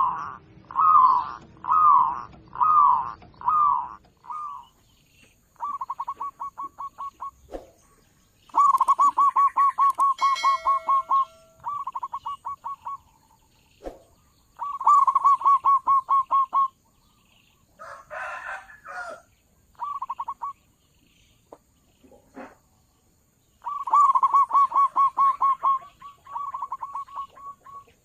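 Zebra dove calling: a few slower descending coos at first, then repeated bursts of rapid staccato cooing notes, each burst lasting one to three seconds with short pauses between. A different, rougher call is heard briefly a little past the middle.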